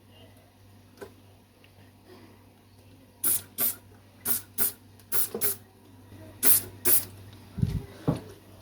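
Trigger spray bottle squirting cleaner in quick pairs of short hissing sprays, four pairs starting about three seconds in. A soft low knock follows near the end.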